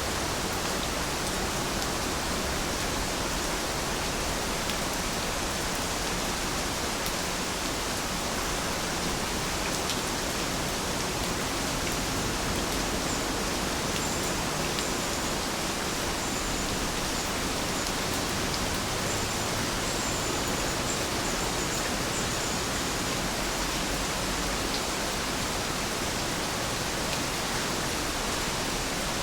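Steady rain falling, an even hiss with scattered drop ticks. A few faint high chirps come and go in the middle.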